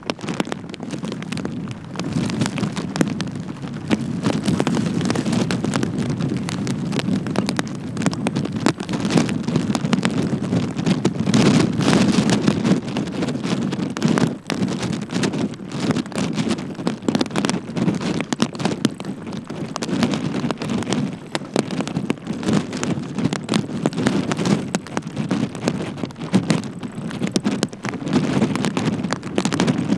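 Rain pattering and tapping on the microphone, with wind buffeting it in a rough, gusty rumble throughout.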